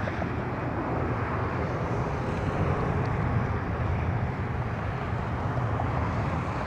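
Jet airliner engines rumbling steadily, a deep, even roar.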